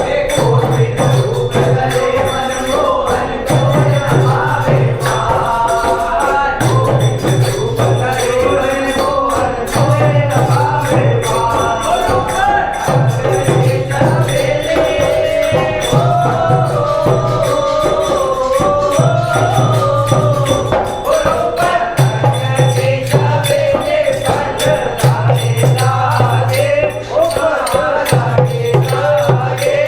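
Hindu devotional singing by a group, chanting a melody over jingling percussion, with a low note pulsing about every three seconds.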